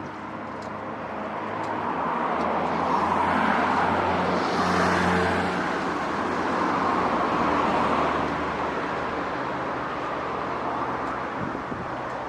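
A road vehicle passing, with a low engine hum and tyre noise. It grows louder over the first few seconds, is loudest about five seconds in, then slowly fades.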